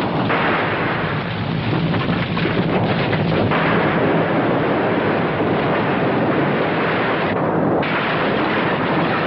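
Earthquake sound effect: a loud, continuous rumble with crashing and debris noise, changing texture about three and a half seconds in and briefly thinning near the end.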